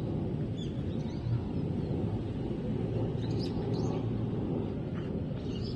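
Steady low outdoor background rumble, like wind on the microphone, with a few short, faint high chirps about half a second in, around the middle and near the end.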